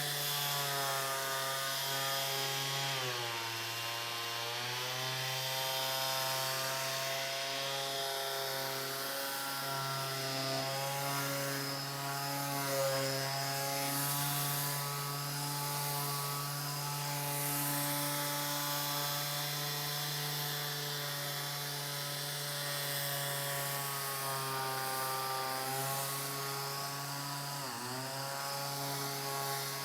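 Electric sander running steadily on a wooden panel, a constant motor hum whose pitch dips briefly about three seconds in and again near the end.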